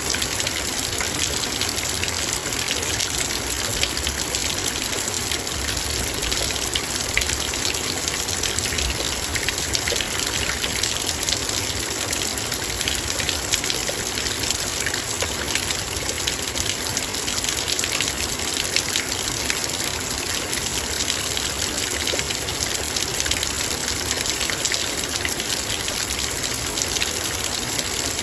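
Heavy rain falling on a metal bowl: a steady, dense wash of rain with countless small, sharp drop ticks on the metal.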